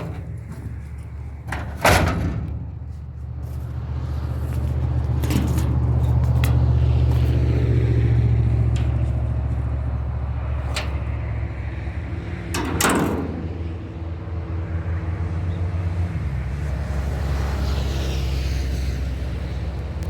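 Fordson Major tractor engine running steadily, growing louder for a few seconds in the middle, with sharp clunks about two seconds in and again about thirteen seconds in.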